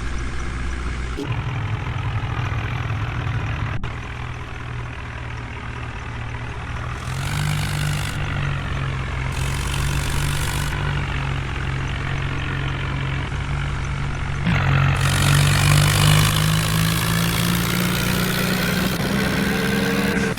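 Heavy diesel engine running, speeding up about seven seconds in and revving louder again about fourteen seconds in, its pitch climbing slowly toward the end.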